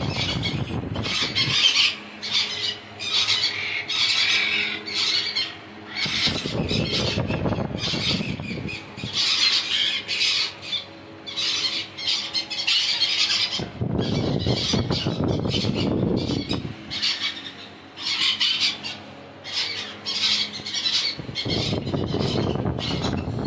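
Pet parrots squawking and screeching over and over in harsh, short calls. Three stretches of low rumbling noise come and go in between.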